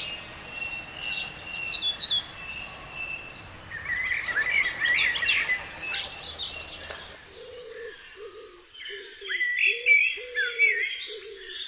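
Wild songbirds singing and chirping outdoors. About two-thirds of the way through the background changes and a pigeon's low, repeated cooing joins the song.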